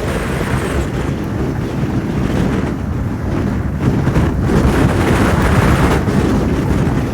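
Strong gusty wind buffeting the microphone, a loud rushing rumble that swells and eases, with most of its weight in the low end.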